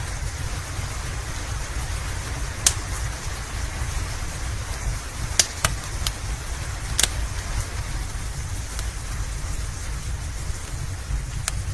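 Steady rain and a crackling wood fire: a low rumble under a hiss, with a few sharp pops from the fire, the loudest about three seconds in.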